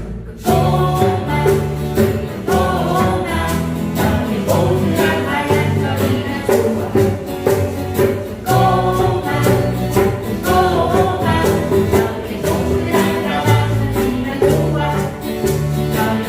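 A group singing a song together over instrumental accompaniment, with steady bass notes and a regular percussive beat.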